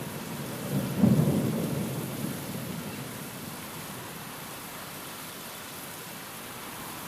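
Steady rain with a roll of thunder: a sudden low rumble about a second in that fades away over the next two seconds, leaving the rain.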